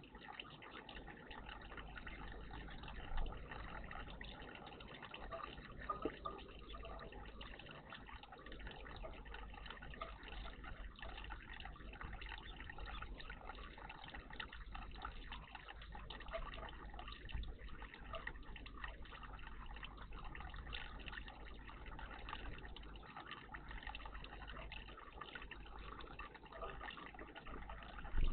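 Water trickling and splashing steadily in a garden bird bath, with a few short louder sounds.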